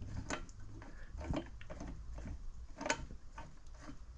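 Irregular light mechanical clicks and ticks, the loudest about three seconds in, as the milling machine's head is fine-fed down on the Z axis to touch the end mill onto the workpiece. A steady low hum runs underneath.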